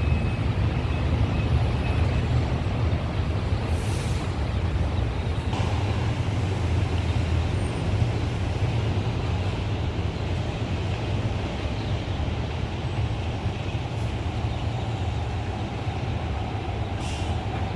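CPTM electric commuter train running through the station: a steady low rumble that slowly gets quieter, with a few faint clicks.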